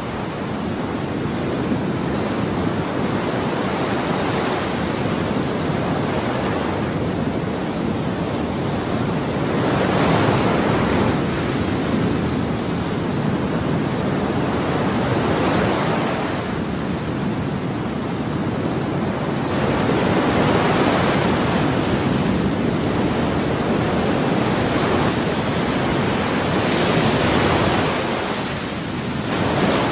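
Ocean waves washing on a shore in a continuous hiss of surf, with a wave swelling and breaking louder about every five or six seconds.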